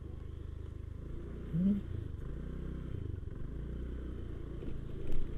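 Motorcycle engine running steadily at low speed, with a short rising tone about a second and a half in.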